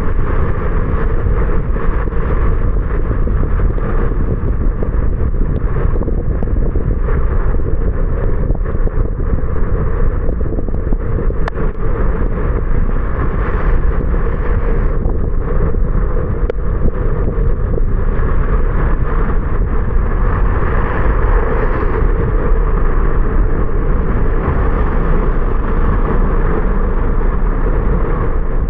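Steady road noise of a car driving: a low rumble with tyre hiss, with a couple of faint ticks near the middle.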